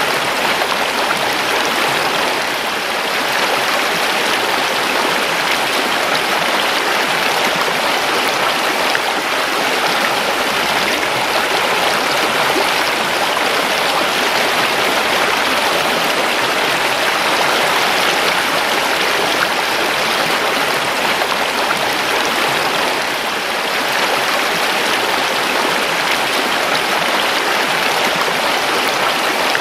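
A creek flowing steadily over stones, a continuous rushing and babbling of running water.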